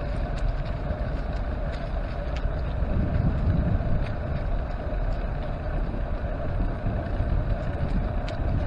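Ride noise from a bicycle-mounted camera: wind on the microphone and tyres rolling over the trail, a steady rumble scattered with light ticks and rattles.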